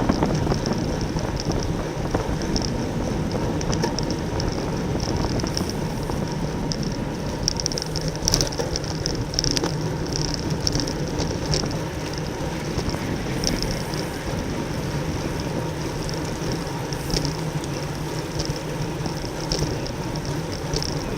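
Wind and road noise from a road bicycle riding at race speed, heard as a steady rush on a rider-carried camera microphone, with a high flickering chatter running through it.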